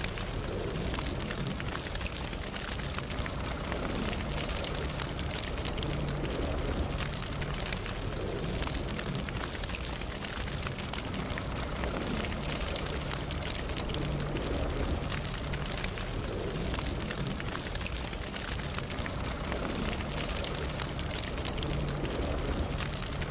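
Campfire burning steadily, with a constant low rumble of flames and dense small crackles and pops from the burning wood.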